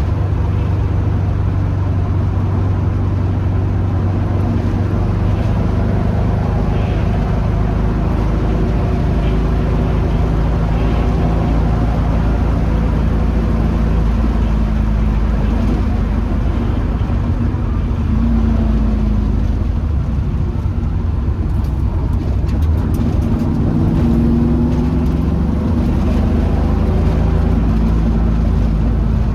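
Ford 302 V8 in a 1966 Mustang idling steadily, with a couple of slight rises in engine speed in the second half. It runs smoothly on new spark plugs, with no exhaust leak from the freshly fitted header gaskets.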